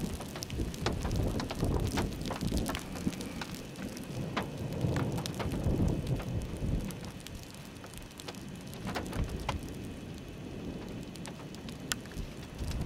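Rain falling in a thunderstorm, with many sharp, uneven drop hits over a low rumble of wind.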